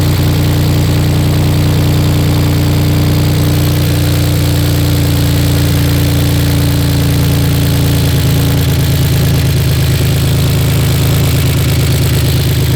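BMW E46's inline-six engine idling steadily. It sounds alright at this moment, though the car has logged a cylinder 6 misfire that the owner puts down to a bad injector.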